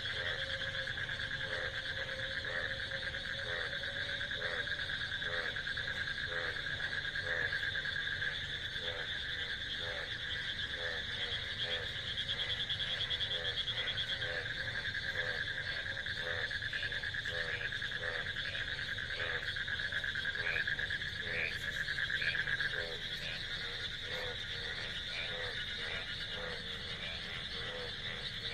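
Chorus of calling frogs: a continuous high trill, with a lower croak repeating more than once a second underneath.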